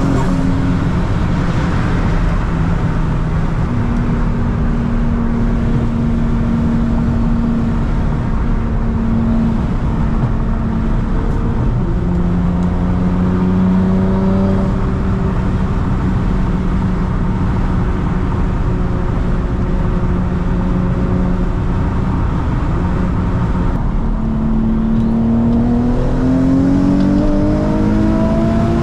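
Twin-turbocharged 2006 Nissan 350Z's 3.5-litre VQ35DE V6 running under steady load while driving, with road noise. The engine note settles to a lower pitch about twelve seconds in, then rises as the car accelerates near the end.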